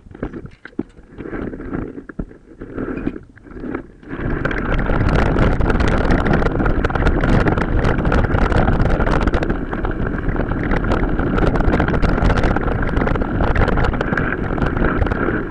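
Wind buffeting the microphone of a camera on a mountain bike riding off-road, mixed with the bike's rattling and clicking. It comes in gusts at first, then turns into a steady loud rush about four seconds in.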